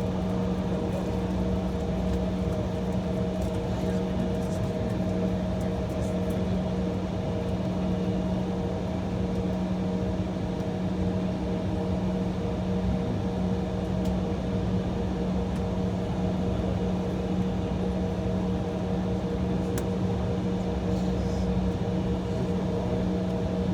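Steady cabin hum of an Embraer E175 airliner holding on the taxiway, with a few fixed droning tones that do not change.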